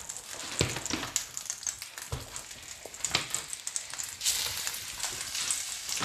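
Breaded rabbit pieces sizzling and crackling as they are laid into hot oil and butter in a frying pan, with a few light knocks against the pan. The sizzle grows louder about four seconds in as more pieces go in.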